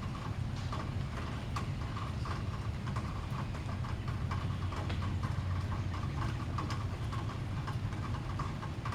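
Irregular small clicks and taps of a bird's beak cracking sunflower seeds and knocking on a feeder, several a second, over a steady low rumble.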